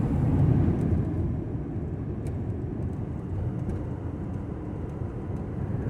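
Road and engine noise inside a moving Ford Transit camper van: a steady low rumble that slowly gets quieter, with a few faint ticks.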